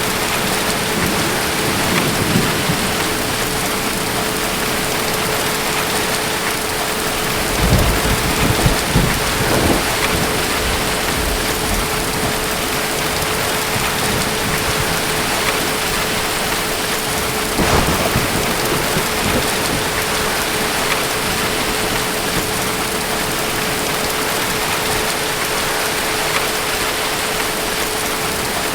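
Steady heavy rain, with low rumbles of thunder swelling about eight seconds in and again briefly near eighteen seconds.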